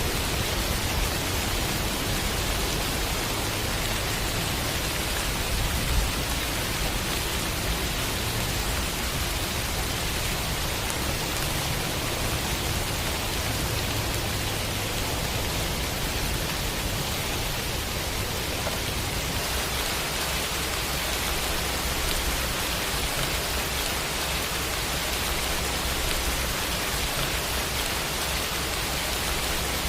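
Steady, even rain, with no single drops or thunder standing out.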